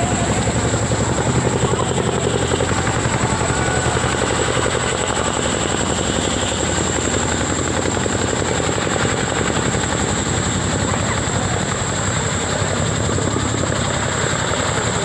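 Helicopter passing overhead with a steady, rapid beat from its main rotor blades and engine noise, plus a steady high whine.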